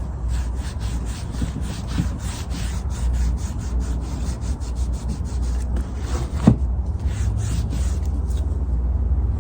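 Sandpaper rubbing back and forth over stained wood, rasping strokes about four times a second, sanding back a stain that came out too dark. A single sharp knock about two-thirds of the way through.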